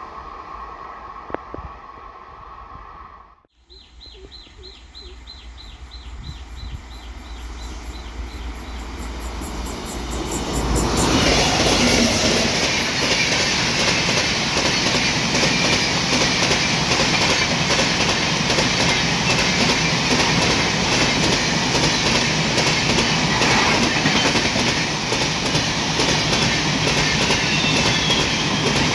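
Express passenger train approaching and then passing close by at speed. After a brief gap a few seconds in, the rumble of wheels on rails builds for several seconds and then holds as a loud, steady rush, with rapid clickety-clack from the coaches' wheels running over the rail joints.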